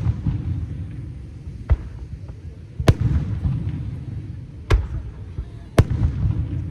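Aerial fireworks shells going off: four sharp bangs a second or two apart, over a continuous low rumble.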